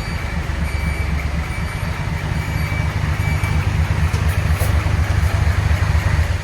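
Isuzu Forward truck diesel engine with a split exhaust manifold (マニ割り) running through its straight exhaust, a deep steady rumble that grows louder about halfway through. A reversing beeper sounds in the first half, about one beep every three-quarters of a second.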